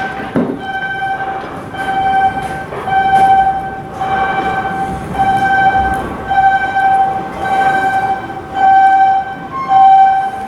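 Electronic warning beeper sounding a steady, buzzy tone in repeated pulses of about once a second, typical of a shipyard crane or vehicle warning alarm, with occasional metal knocks.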